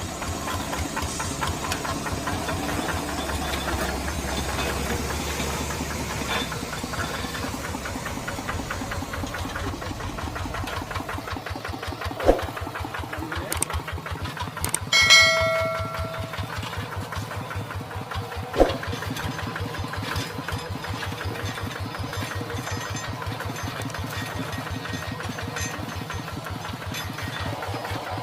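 Tractor engine running steadily at an even pace. About halfway through there are two sharp knocks and a short high-pitched tone.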